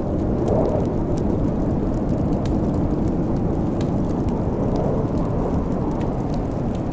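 Steady, deep snowstorm wind with scattered sharp crackles and pops from a wood fire.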